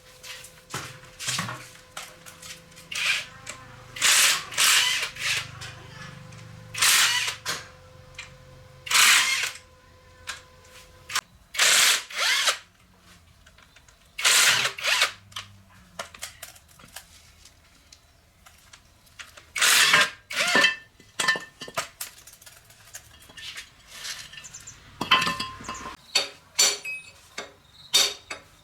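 Workshop tool noise in short, irregular bursts, about a dozen, each under a second long. A faint steady hum runs underneath until about eleven seconds in.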